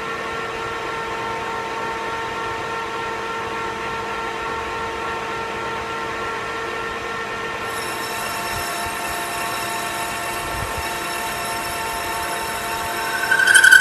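Metal lathe running and turning 1018 cold-rolled steel: a steady whine made of several held tones. A louder, high-pitched squeal builds up near the end.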